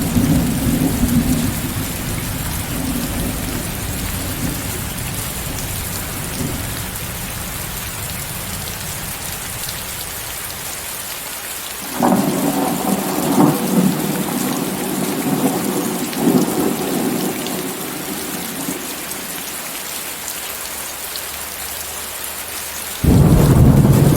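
Steady heavy rain hiss, with thunder rumbling. A rumble at the start fades away, a new peal of thunder starts suddenly about halfway through and dies out, and another loud rumble breaks in abruptly near the end.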